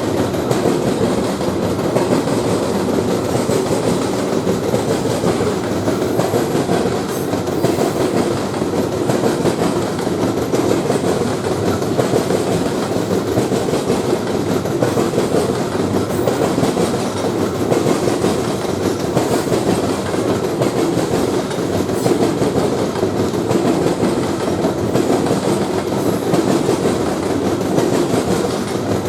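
Train cars rolling past on the rails, a steady dense rumble of wheels on track.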